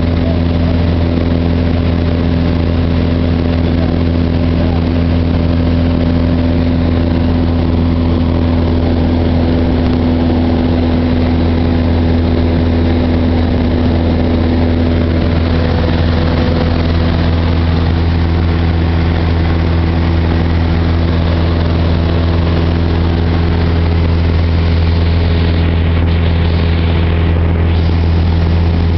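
Cessna 172's piston engine and propeller droning steadily at cruise power, heard loud from aboard the plane.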